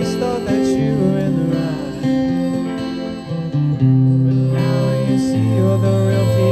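Guitar-led band music, with held chords that change every second or so.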